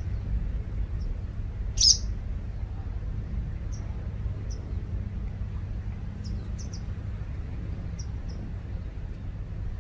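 Short bird chirps over a steady low rumble. The loudest chirp comes about two seconds in, followed by a scattering of smaller ones.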